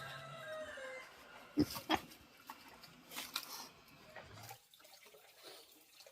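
An animal call, short and falling in pitch, over a low steady hum, with a few sharp knocks after it; the sound drops away about two-thirds of the way through.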